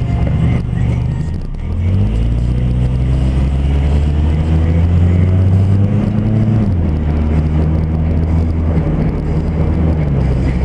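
Car engine heard from inside the cabin. It runs steadily, then its pitch climbs for several seconds as the car pulls away from a stop. The pitch drops suddenly about two-thirds of the way through, as the transmission shifts up, and again near the end.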